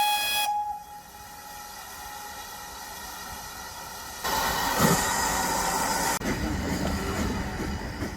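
Old steam locomotive's whistle, a steady high note, cuts off about half a second in. The engine goes on running more quietly, then a louder rush of noise comes in about four seconds in.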